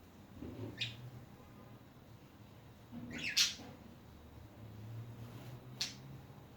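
Pet budgerigars giving short, sharp squawks and chirps: one about a second in, a louder one at about three and a half seconds, and another near the end.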